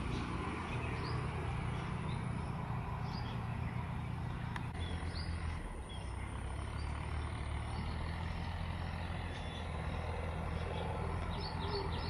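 Faint short bird chirps, scattered through the clip, over a steady low rumbling background noise.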